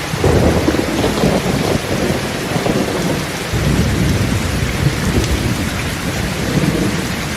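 Steady heavy rainfall with rolling thunder, the low rumble swelling just after the start and again about halfway through.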